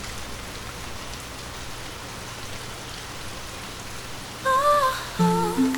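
Steady rainfall hiss, then a gentle plucked-string melody begins about four and a half seconds in, over the rain.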